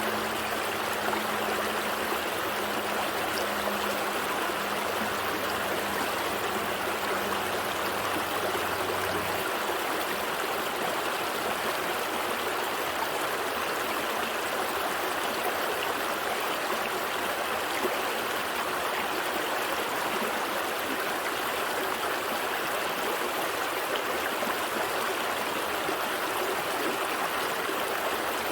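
A gentle stream flowing steadily, an even rushing and gurgling of water over rocks. A faint low hum sits underneath and stops about nine seconds in.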